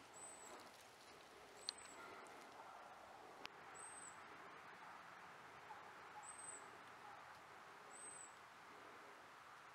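Near-silent outdoor ambience with a bird's high, thin call repeated five times, each a brief chirp a second or two apart.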